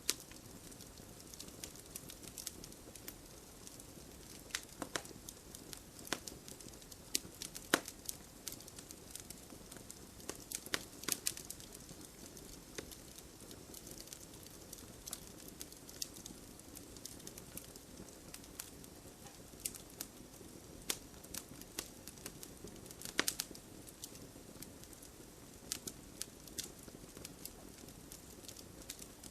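Wood campfire burning: a steady low hiss of flames with irregular sharp crackles and pops from the burning wood, a few louder pops standing out.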